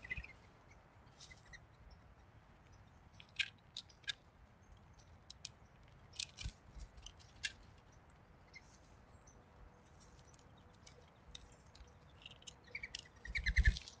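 Faint, scattered short bird chips and ticks, then near the end a brief flurry of wingbeats as a mourning dove flies in and lands on the bird bath rim, the loudest sound here.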